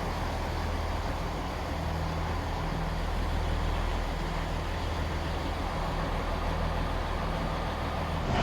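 Diesel multiple unit's engine running steadily, a low even drone with a light rushing noise over it.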